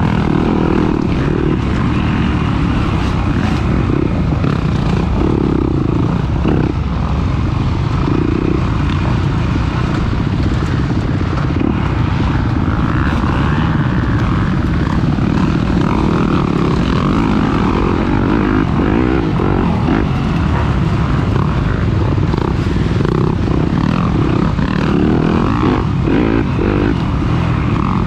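Off-road racing dirt bike engine running hard and steadily, a loud continuous drone with no clear revving up or down.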